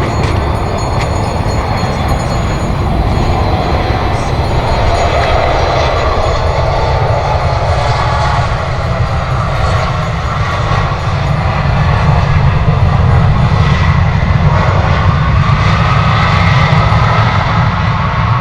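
Jet airliner's engines, a loud steady roar with deep rumble, growing a little louder about two-thirds of the way through.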